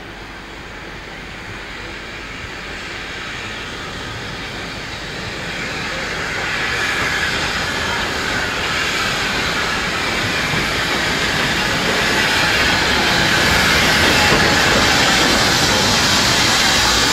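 A train approaching on the line, its running noise and wheels on the rails growing steadily louder and nearest near the end.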